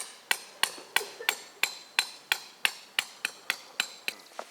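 Rapid, evenly spaced hammer blows, about three a second, each with a short ringing tail, coming slightly faster near the end.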